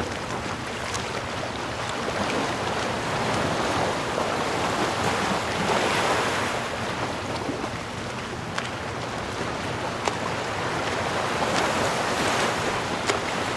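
Ocean waves washing onto a shore, a steady rushing surf that swells and eases every few seconds, with a few faint sharp ticks.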